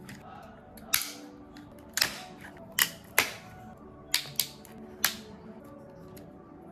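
Plastic snap-fit clips and adhesive of a Xiaomi 55W vertical wireless charger's back panel cracking as the panel is forced off: about seven sharp snaps at irregular intervals in the first five seconds, over faint background music.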